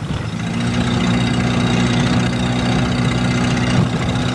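Car engine running steadily at idle, an even low hum.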